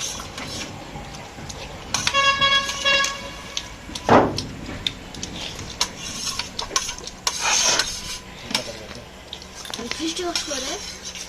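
Spoons clinking and scraping on metal plates and dishes during a meal. A vehicle horn sounds once, steadily for about a second, about two seconds in.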